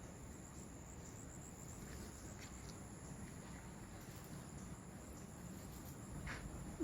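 Quiet outdoor ambience with insects keeping up a steady high-pitched drone. There is a short chirp near the end.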